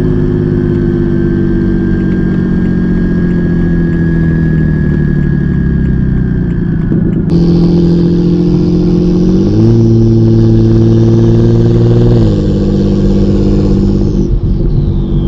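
Single-turbo BMW 335i's N54 straight-six running at steady revs under light throttle, with a high turbo whistle and hiss over the engine note. The engine pitch steps up for a few seconds and drops back, and a whistle falls away near the end.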